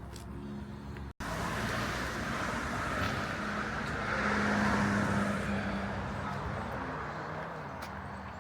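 A car driving past, its engine and tyre noise swelling to a peak about halfway through and then fading away. The sound cuts out for an instant about a second in.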